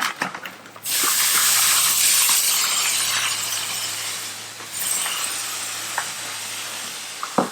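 Water spraying onto live crawfish to rinse them and fill the purging cooler: a steady hiss that begins about a second in and eases off past the middle.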